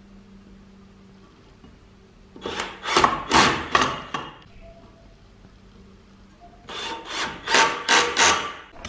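Hand scraping strokes on a workpiece, in two bouts of about five quick back-and-forth strokes each, a couple of seconds apart.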